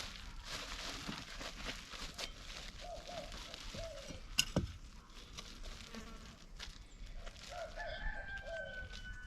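Chickens clucking in short repeated calls, with a drawn-out, slightly falling rooster crow near the end. Light rustling throughout and one sharp knock about four and a half seconds in.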